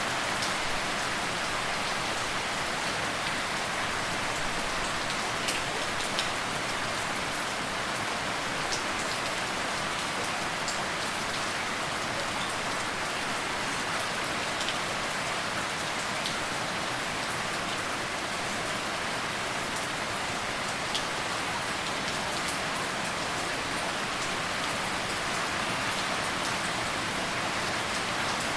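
Steady rain falling, an even hiss with scattered individual drops ticking sharply now and then.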